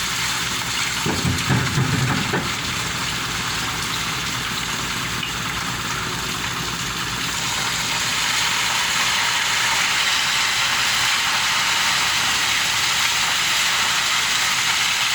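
Steady hiss of rushing water, growing a little louder in the second half, over a low steady hum. A brief louder low rumble comes between about one and two and a half seconds in.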